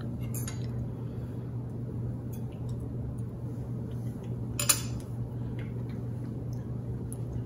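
Table knife and fork clinking and scraping on a plate while cake is eaten, with a few light taps and one sharper clink of metal on the plate about four and a half seconds in. A steady low hum runs underneath.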